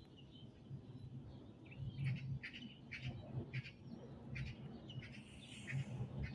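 Bird chirping: two runs of short, high chirps, the first about two seconds in and the second about four seconds in, over a steady low rumble.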